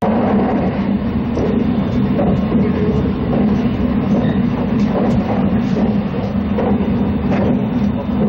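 Passenger train running at speed, heard from inside the carriage: a steady rumble of wheels on rail and running gear.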